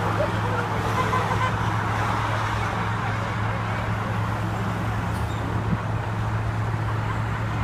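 Truck engine running steadily, a constant low drone with road noise.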